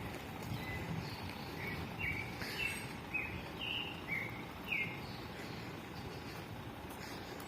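A bird calling: a quick run of about eight short, high chirps in the middle, over a steady background of outdoor noise.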